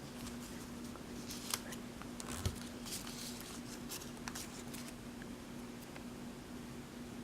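Origami paper being folded and creased by hand: scattered soft crackles and taps, with a low thump about two and a half seconds in, over a steady low hum.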